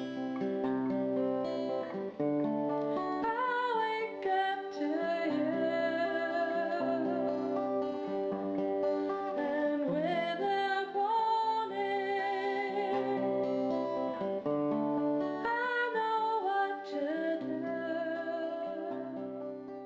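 Acoustic guitar song with a woman singing, strummed and plucked chords under a wavering vocal melody that comes in a few seconds in.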